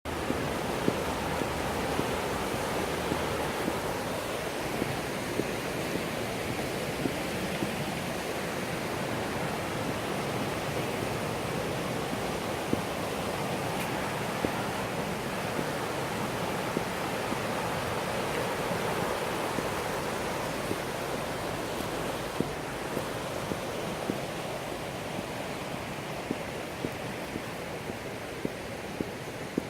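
Steady rushing of river water from the Millstone River, an even wash of sound, with small faint clicks now and then.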